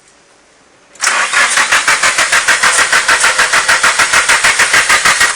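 Turbocharged Nissan SR20 four-cylinder engine cranking on its starter in a fast, even rhythm of about seven or eight beats a second for about four seconds, without catching: a no-start.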